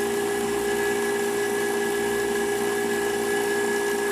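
Milling machine end mill cutting through the last thin wall of the tube: a steady whine with a high ringing tone as the thin material starts to vibrate, the sign that the cut is nearly through and the feed should be slowed.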